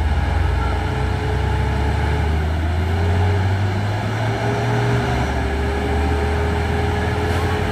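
Heavy truck diesel engines pulling under load up a steep climb: a steady deep drone with a steady higher whine over it.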